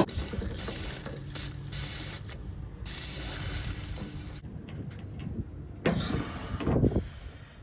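Ratchet spanner clicking and scraping while working a seized bolt loose, in irregular strokes with a couple of heavier grinding pulls near the end.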